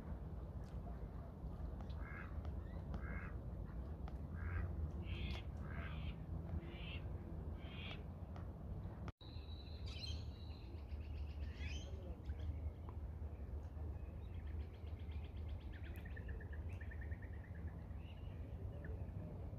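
Birds calling: a run of short, separate calls, then rapid trilled calls in the second half, over a steady low rumble.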